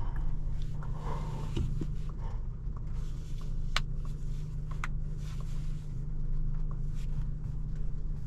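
Cabin sound of a 2017 Volkswagen Jetta SE, 1.4-litre turbo four with a 5-speed manual, on the move: a steady engine and road drone, with two sharp clicks about four and five seconds in.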